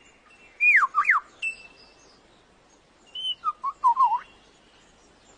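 Male lyrebird singing its display song of copied sounds: a few loud whistled notes sweeping down and back up, a short held high whistle, then after a pause a quick run of warbling notes mixed with sharp clicks.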